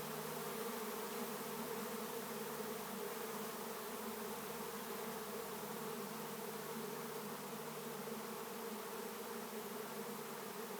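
A swarm of honey bees buzzing in flight as they move into a swarm capture box: a steady, dense drone of many bees with no break.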